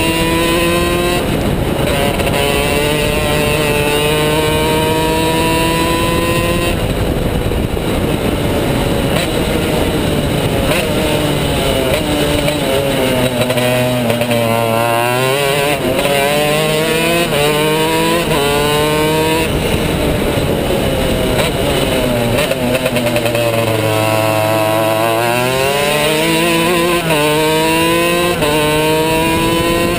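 Two-stroke racing kart engine at full throttle, its pitch climbing in long pulls broken by gear changes, then dropping twice as the kart brakes and downshifts for corners before climbing again.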